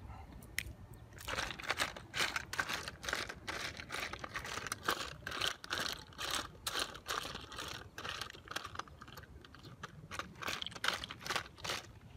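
Golden apple snails in their shells clattering against a tin pan as a stick stirs them while they stir-fry: a dense run of irregular clicks and knocks, several a second.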